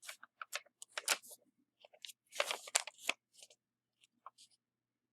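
Folded paper airplane being handled: irregular short crinkles and rustles of paper, busiest between about two and three seconds in.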